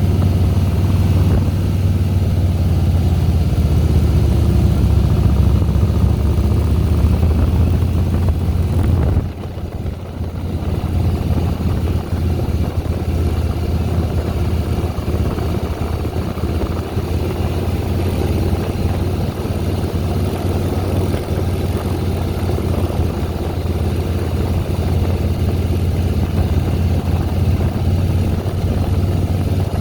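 2010 Harley-Davidson Softail Deluxe's V-twin engine running steadily under way. About nine seconds in the sound drops off sharply for a moment, then builds back up.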